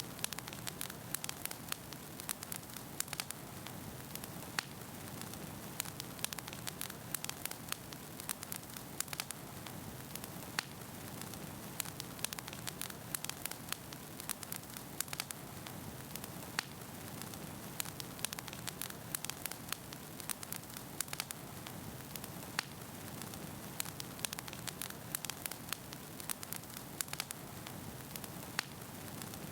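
Wood fire burning in a fireplace: a steady low rush of flames with frequent sharp, irregular pops and crackles from the burning logs.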